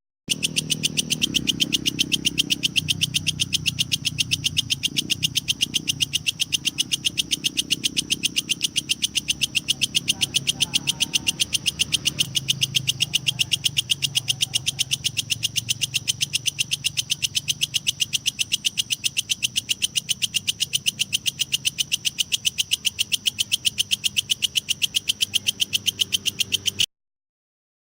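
Belalang kecek (walang kekek), a bush cricket, calling in a fast, even train of clicking pulses, about four or five a second, over a low steady hum. The sound cuts out suddenly about a second before the end.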